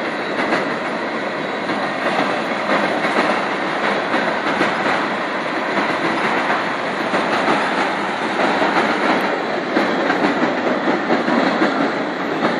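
Freight train of tank cars and boxcars rolling past, a continuous noise of wheels on the rails that rises and falls slightly.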